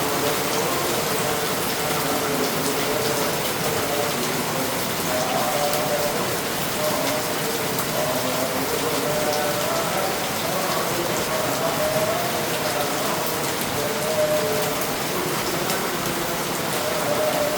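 Heavy downpour of rain falling steadily, with faint wavering tones running through it.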